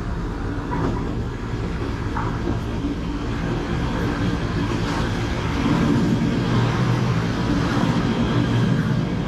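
KTM electric commuter train pulling into the station. Its low rumble grows louder about halfway through as the carriages come alongside the platform.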